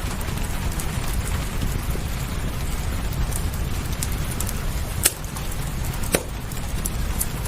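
Wood fire crackling with scattered sharp pops, the two loudest about five and six seconds in, over steady rain hiss and a low rumble.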